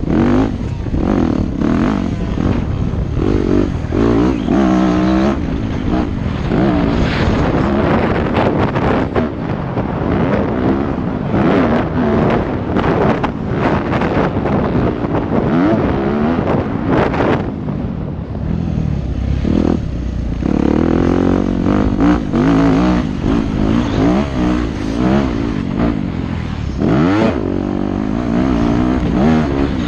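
Yamaha YZ250F motocross bike's single-cylinder four-stroke engine being ridden hard, revving up and down again and again, with wind buffeting the microphone.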